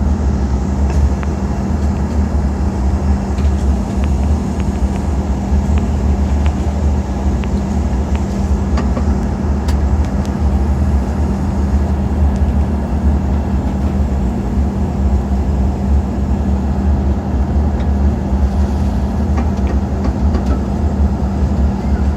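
Steady cabin noise inside an Embraer E190 airliner on descent: the drone of its turbofan engines and the rush of airflow, with a strong low hum.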